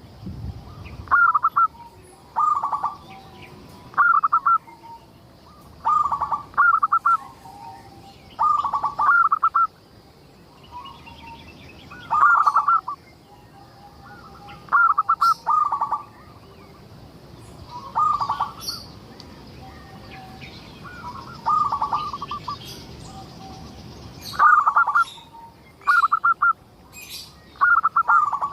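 Local zebra dove (perkutut) singing steadily: short phrases of quick cooing notes, repeated every second or two. Fainter high chirps of other small birds sound behind it.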